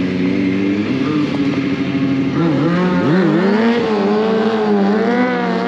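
Stunt motorcycle's engine revving. The pitch sags briefly just under halfway through, then climbs about three seconds in and holds high with small rises and falls of the throttle.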